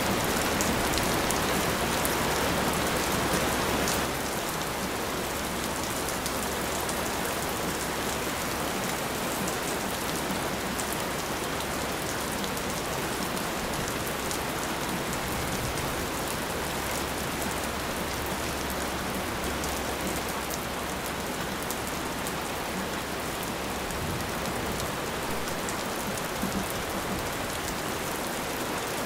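Steady rain falling and pattering on surfaces, a continuous hiss with scattered drop ticks. It drops a little in loudness about four seconds in, then stays even.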